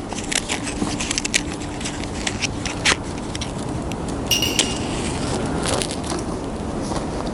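Crackling and scattered sharp clicks from a stainless steel wood stove being lit with wood pellets, with a short metallic ring about four seconds in.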